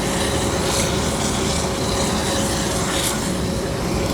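Steady low rumble and hiss of outdoor machinery noise with a faint steady hum, no single event standing out.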